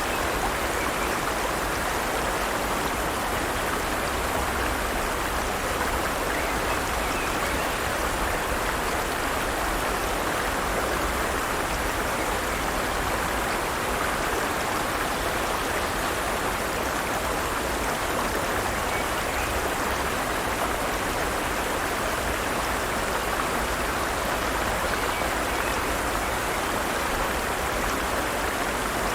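Forest stream: water running over rocks with a steady, even rush.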